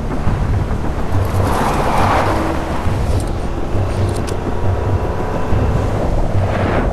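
Car engine running with a steady throbbing rumble during a vehicle chase, with a rushing swell of passing-vehicle noise about two seconds in and another near the end.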